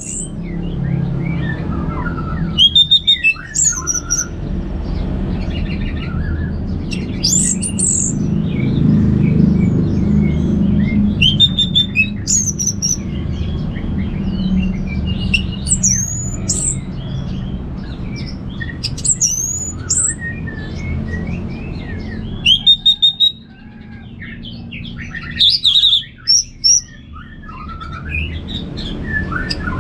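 Orange-headed thrush singing a loose, varied song of short whistled phrases, many gliding up or down, broken by brief rapid rattling bursts several times. A steady low rumble runs underneath.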